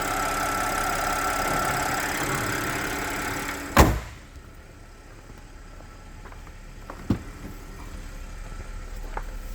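2009 Audi A6 Avant's engine idling steadily a couple of minutes after a cold start. A single loud thump comes about four seconds in, and after it the engine sound is much quieter. A smaller click follows a few seconds later.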